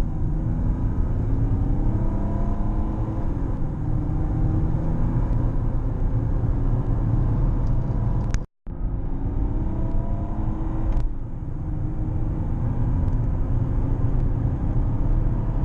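Mercedes E320 CDI estate's turbodiesel engine pulling under hard acceleration, its note climbing and dropping back at automatic gear changes. The sound cuts out briefly just past halfway, then the engine climbs through the gears again. The car is at 206,000 miles with a gearbox the owner calls a little slow.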